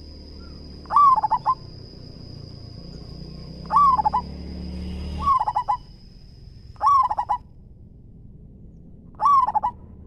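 Zebra dove singing: five short cooing phrases, each a quick run of staccato notes, spaced a couple of seconds apart. A faint steady high whine runs under it.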